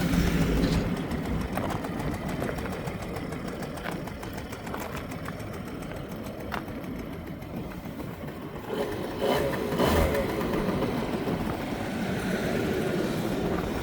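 Suzuki Let's II scooter's small air-cooled two-stroke single idling, with a brief blip of the throttle about nine to ten seconds in before it settles back to idle.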